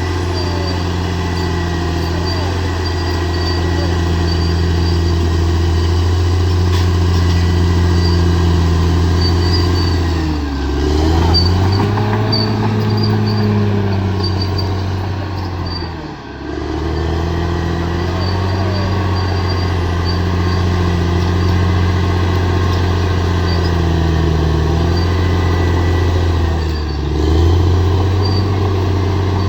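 Bulldozer diesel engine running steadily and loudly, its pitch dipping and rising back a few times.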